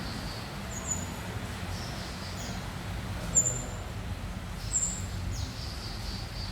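Young tledekan gunung twittering: short, high chirps every second or two, the loudest about three and a half seconds in, over a steady low rumble.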